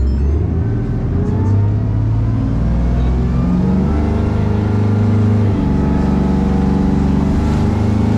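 Boat engine running steadily under way, its pitch stepping up or down about a second in and again about five and a half seconds in as the throttle changes.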